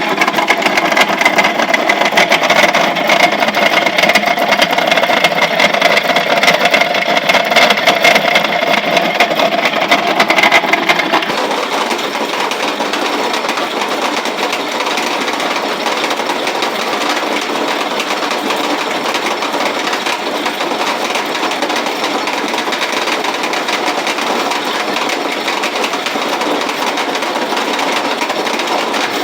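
Antique grain roller mill running, a steady mechanical clatter with a hum. About a third of the way in it drops a little in level and turns to a more even rattle.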